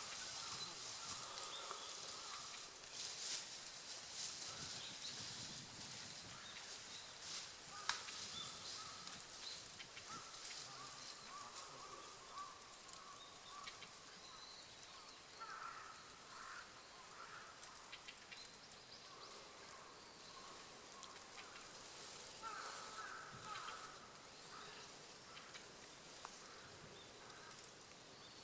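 Faint outdoor ambience, a steady high hiss with scattered short, distant bird calls, clustered midway and again later. A single sharp click about eight seconds in.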